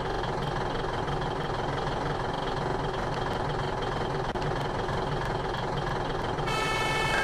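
Fire truck engine idling steadily. Near the end its siren starts, a pitched wail that begins to rise.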